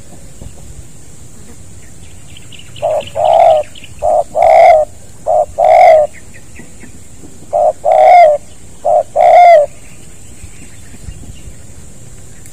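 Spotted dove (tekukur) cooing loudly close by: two phrases about two seconds apart, each of three coos, every coo a short note followed by a longer one.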